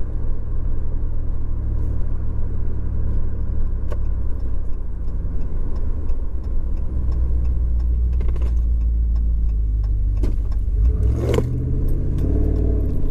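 A 5.7-litre Hemi V8 in a Ram 1500, breathing through a Carven Competitor Series cat-back exhaust, heard from inside the cab while driving: a steady low rumble. About eleven seconds in the engine note changes, climbing and dropping, like a gear change.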